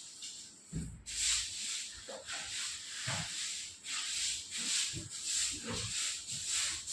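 Floor being swept with a broom: repeated brushing swishes, about one and a half a second, starting about a second in after a low thump.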